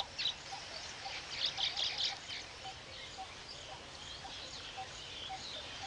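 Weaver birds chattering: clusters of high chirps, busiest about a second and a half to two seconds in, over a faint steady background with a soft low note repeating about twice a second.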